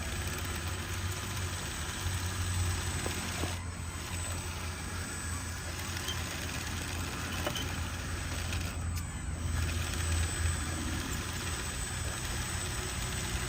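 A motor running steadily: a low drone under an even hiss, with a few faint ticks.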